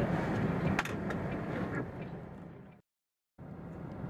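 Steady low vehicle hum with two sharp clicks, one at the start and one a little under a second in. The hum fades out to a moment of dead silence about three seconds in, then comes back.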